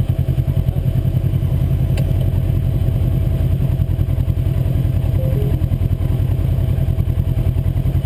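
UTV engine running steadily at low, even revs, with a fast regular pulsing beat.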